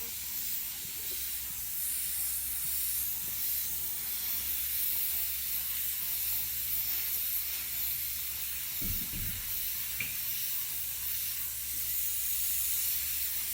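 Automotive paint spray gun hissing steadily as compressed air atomises the white base coat, blending it out onto the panel. A brief low knock about nine seconds in.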